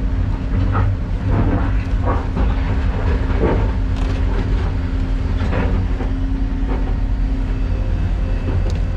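Excavator diesel engine running steadily under load, with irregular metallic clanks and squeals from the machine every second or so.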